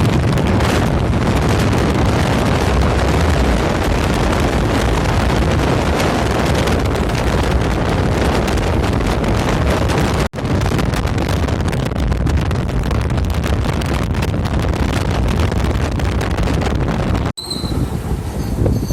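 Wind buffeting the microphone, with road and engine noise, on a moving motorbike. The rush breaks off sharply twice, about ten and seventeen seconds in. Near the end a quieter stretch holds a few short high tones.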